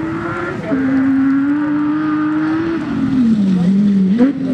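Off-road rally car's engine running hard at high revs. The pitch steps down about two-thirds of a second in, falls away near the end, then rises sharply again.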